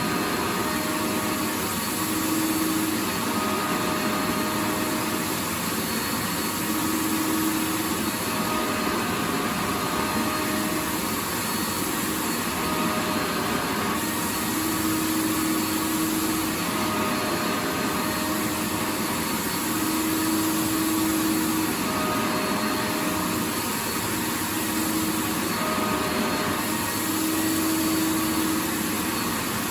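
Vacuum cleaner running steadily: a continuous rushing motor-and-air noise, with a humming tone that swells and fades every few seconds.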